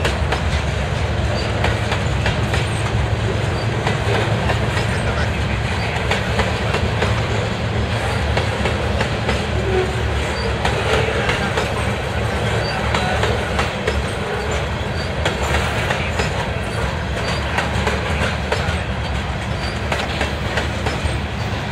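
Loaded covered hopper cars of a freight train rolling past at close range: a steady rumble of steel wheels on the rails with continual clickety-clack.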